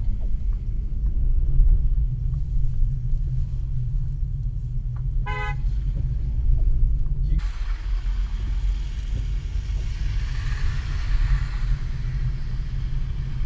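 Steady low rumble of a car driving, heard inside the cabin. A car horn toots once, briefly, about five seconds in. A few seconds later a hiss joins the rumble.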